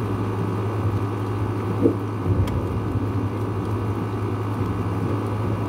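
Heavy rain pouring down steadily in a thunderstorm, with a steady low hum underneath.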